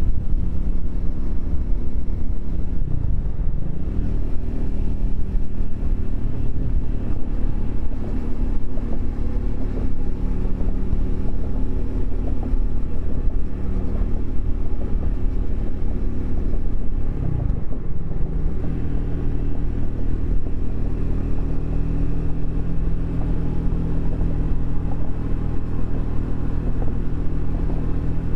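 Triumph Speed 400's single-cylinder engine running steadily under way. The engine note dips and climbs again twice, about three seconds in and again around seventeen seconds.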